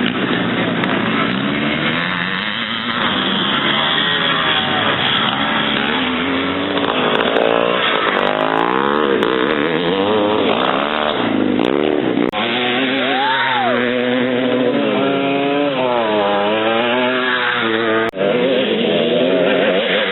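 Several vintage 500cc motocross motorcycles racing, their engines revving up and down and overlapping as the riders run through the gears. The sound breaks off briefly twice, about twelve and eighteen seconds in.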